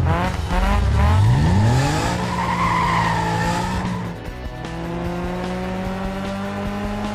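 Cartoon vehicle engine sound effect: the engine note sweeps down and up in quick revving glides, a squealing screech about two to four seconds in, then a steady engine note that climbs slowly in pitch.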